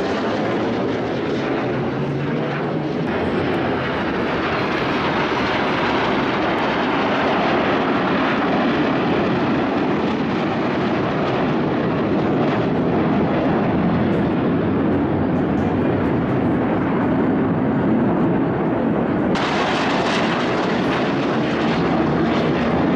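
Jet noise from the Frecce Tricolori's Aermacchi MB-339 trainers flying their display: a loud, steady rushing sound. The sharp hiss on top slowly dulls over several seconds, then comes back abruptly about nineteen seconds in.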